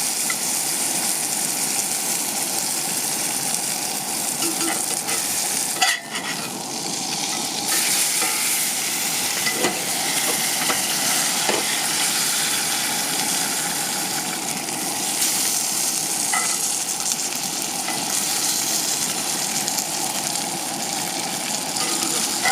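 Food frying in a hot cast iron pan: a steady sizzle, with a few light taps of a utensil, the sharpest about six seconds in. The pan is running hotter than the cook would like.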